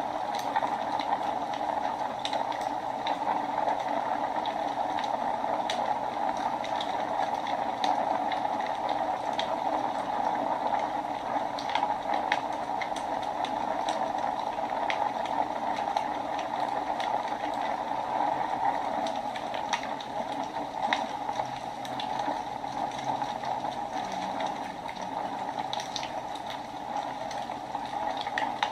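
Wood fire burning in a fireplace: a steady rushing hiss with frequent sharp crackles and pops at irregular moments.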